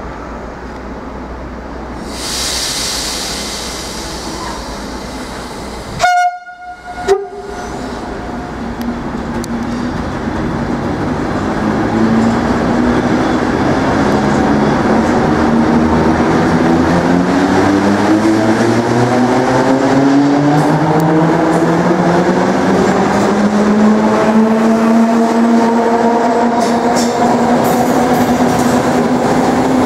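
A Plan V electric train gives two short, very loud horn blasts about a second apart, the second lower, as a greeting. It then pulls away, its traction motors whining steadily higher as it gathers speed, with wheel clatter on the rails.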